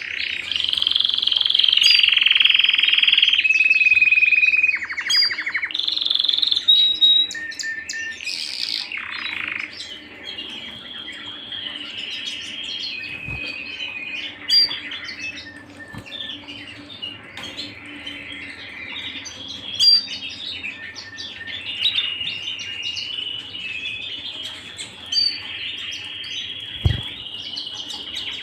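Domestic canary singing a long, continuous song of held whistled notes and rapid rolling trills, loudest in the first few seconds. A short low thump sounds near the end.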